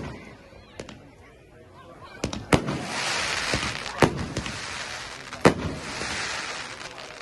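Fireworks going off: a series of about five sharp bangs, two of them close together, with a sustained crackling, hissing shower of noise between them from about three seconds in.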